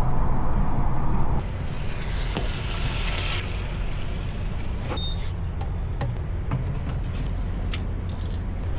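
Steady low vehicle rumble, with scattered sharp ticks in the second half.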